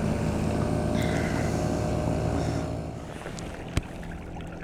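Boat outboard motor running steadily, its level dropping about three seconds in, with water and wind noise and a single sharp knock shortly after.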